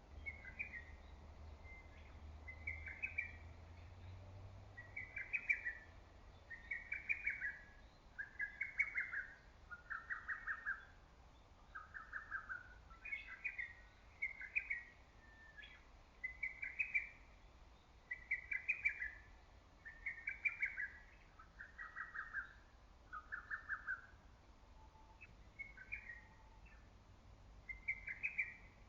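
Lesser cuckoo (hototogisu) singing its loud, staccato multi-note phrase over and over, one phrase about every second and a half to two seconds. The phrases drift lower in pitch over each run before starting high again.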